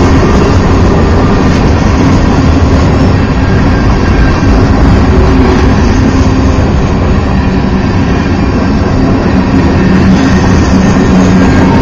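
Freight train of covered hopper cars rolling past close by on a curve: a loud, steady rumble and clatter of steel wheels on the rails.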